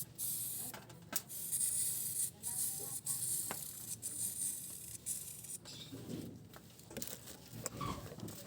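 A spray hissing in uneven bursts, with scattered small clicks and knocks.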